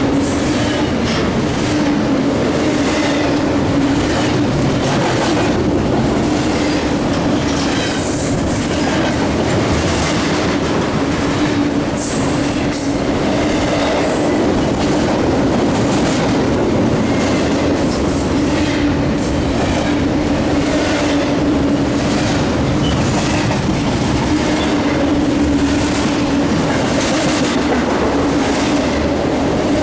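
A long BNSF double-stack freight train rolling steadily past, with its wheels clicking rhythmically over the rail joints and a steady hum of rolling wheels and cars underneath.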